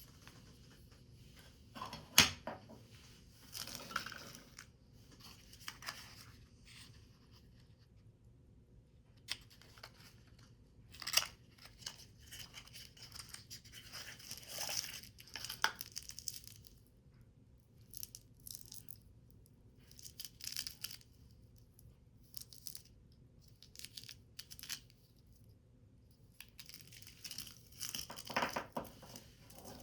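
Paper or thin card being handled and torn in short, irregular bursts, with quiet gaps between them. A sharp click about two seconds in is the loudest sound.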